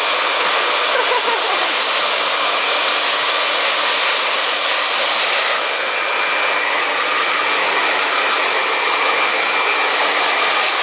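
Hand-held hair dryer blowing steadily, a continuous rushing hiss with a faint steady whine; its tone changes slightly about halfway through.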